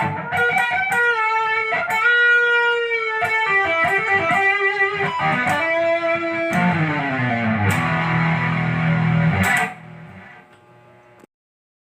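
Ibanez GIO electric guitar with HSH pickups playing a run of quick single-note lead lines. About six and a half seconds in, a held note or chord drops in pitch and sustains. It is choked off a few seconds later, leaving a faint ring, then silence.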